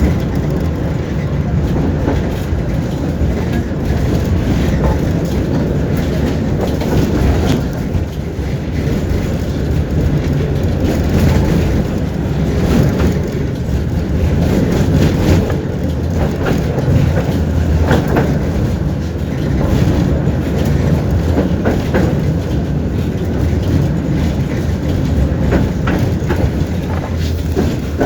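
Running noise of a moving tram heard from inside the car: a steady low rumble of wheels on track, with irregular clicks and knocks as the wheels cross rail joints.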